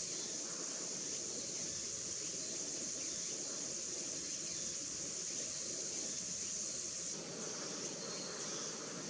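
Steady high-pitched drone of an insect chorus, with a faint low background rumble; it dips briefly about seven and a half seconds in.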